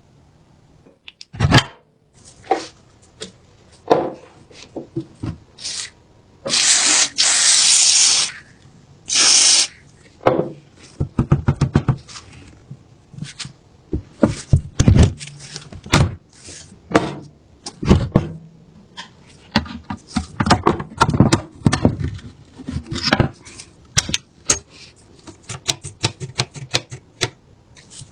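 Hands-on work with the rusty submachine gun's metal parts and tools: a long series of separate clicks, knocks and clatters, with a loud rushing noise lasting about two seconds some six seconds in and a shorter one just after.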